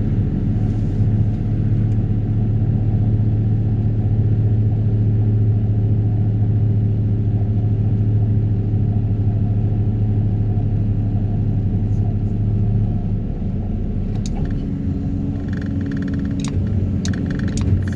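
Excavator-mounted Daedong 350T vibratory hammer running at full vibration, a loud steady low hum, while pulling a steel sheet pile. About 13 seconds in the hum drops away, leaving the excavator running, with a few sharp clicks near the end.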